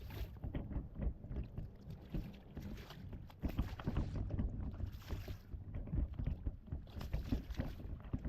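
Wind rumbling on the microphone and water lapping and slapping against a kayak's hull, with scattered knocks and splashes and a couple of brief hissing swells.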